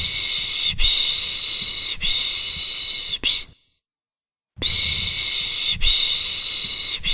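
A human 'shh' shushing sound (piş piş) to soothe a baby. Four long shushes run together with brief breaks between them, then about a second of silence, then the same run of shushes starts again.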